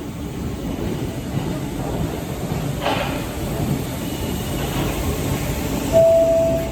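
Merseyrail electric multiple unit rumbling at an underground platform, with a brief squeal about three seconds in. A single steady electronic tone sounds near the end.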